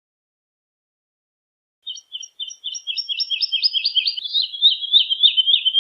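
Woodlark singing: after about two seconds of silence, a song phrase begins, a series of repeated notes that speeds up and drifts slightly lower in pitch, still running at the end.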